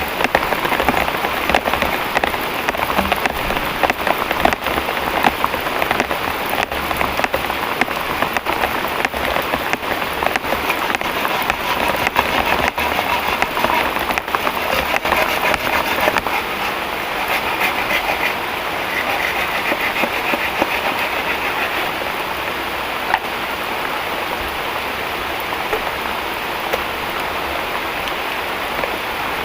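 Heavy tropical rain pouring down, a dense hiss full of sharp drop hits. About halfway through the individual hits thin out and it settles into a steadier hiss.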